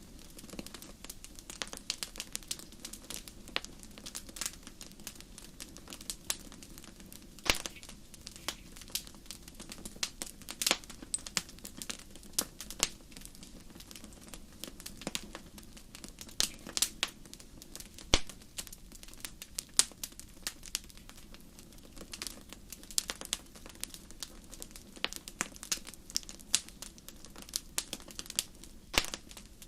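Wood fire crackling in a fireplace: a constant stream of irregular pops and snaps, a few much sharper than the rest, over a steady low rush of the flames.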